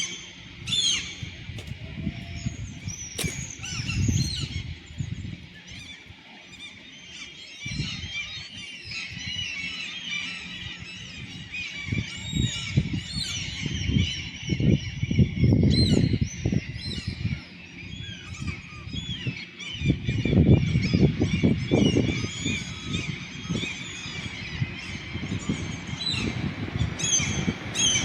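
A flock of gulls calling over each other, many short, sliding high calls without a break, with bursts of low rumble loudest near the middle and again past two-thirds of the way.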